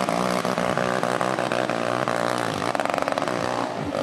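Motocross motorcycle engines running hard at high revs, with a buzzing, chainsaw-like tone; the pitch dips briefly about two and a half seconds in.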